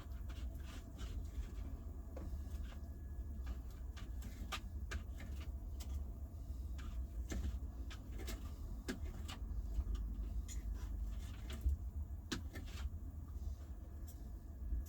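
Scattered light clicks and knocks of things being handled, over a steady low rumble.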